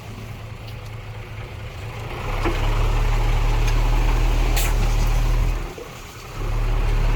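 Diesel engine of heavy earthmoving machinery running, its low drone growing louder about two seconds in, dipping briefly near the end and picking up again, with a couple of short sharp clanks.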